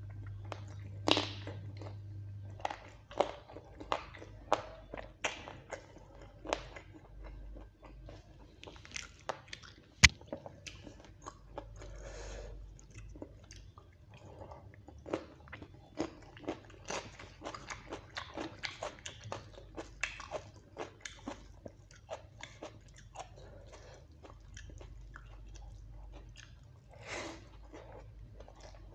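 Close-up mouth sounds of a person eating chicken curry and rice by hand: wet chewing and lip smacks, with crisp bites of raw cucumber. A single sharp click about ten seconds in is the loudest sound.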